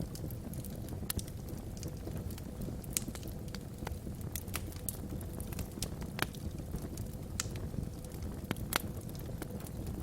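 Logs burning in a wood fireplace: irregular sharp crackles and pops, several a second at times, over a low steady rumble of the fire.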